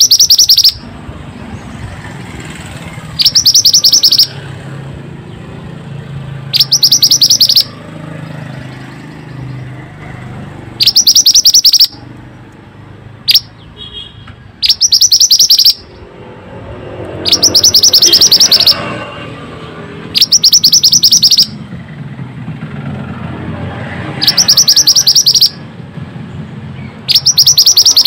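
Mantenan bird singing: a loud rapid trill about a second long, repeated about nine times at intervals of three to four seconds, the song clipping into distortion. A low steady background hum runs between the trills.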